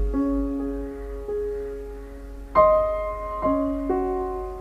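Slow background piano music: a few held notes struck one at a time, each ringing on.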